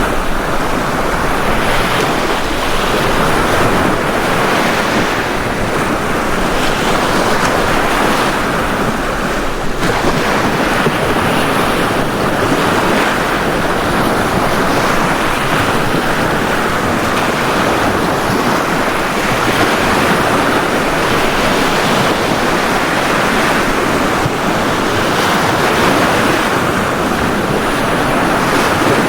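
Ocean waves breaking and washing onto a beach, a steady surf that swells and eases every few seconds, with some wind on the microphone.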